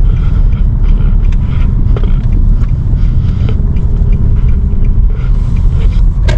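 Car road noise while driving: a steady low rumble, with one sharp click just before the end.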